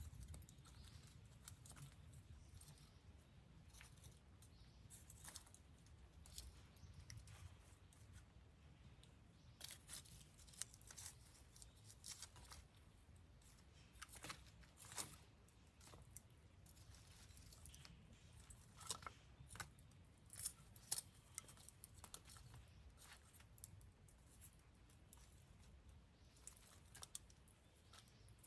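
Wood campfire crackling quietly, with irregular sharp pops and snaps that come thicker around the middle.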